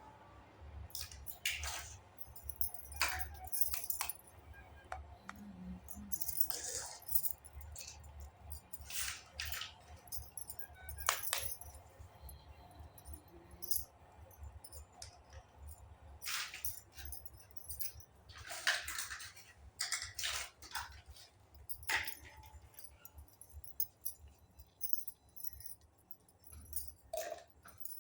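Small toy kitchen pieces being handled and unpacked, with irregular light clicks, taps and clinks of plastic and metal parts over a steady low hum.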